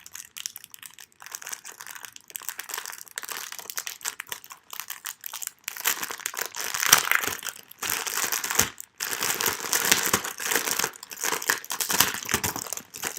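Crinkling of packaging as a new book cover is unwrapped by hand, getting louder and busier about halfway through.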